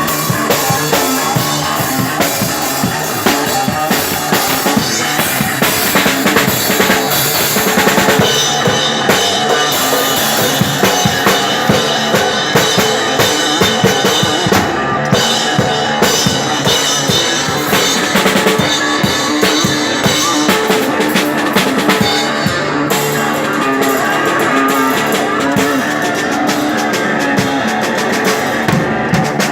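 Live rock music: a drum kit played busily with bass drum and snare hits, over sustained electric guitar.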